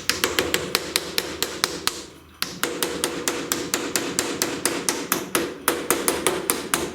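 Quick, even hammer taps, about five a second, driving a bearing dust cap onto a wheel hub, with a short pause about two seconds in.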